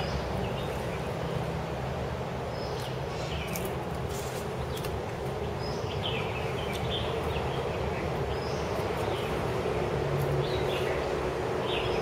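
Birds chirping in short calls every second or so over a steady low hum.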